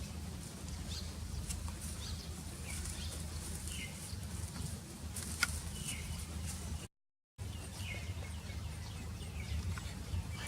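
Scattered short, faint bird chirps over a steady low hum outdoors; the sound cuts out briefly about seven seconds in.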